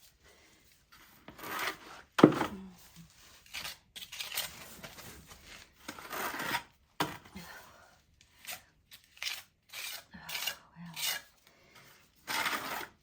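Irregular series of gritty scraping and rubbing strokes on a hard surface, each under a second long, with a sharp knock about two seconds in that is the loudest sound.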